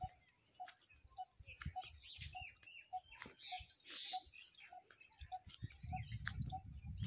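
Birds calling: one short low note repeated evenly, a little under twice a second, over scattered higher chirps and twitters. A low rumble comes in near the end.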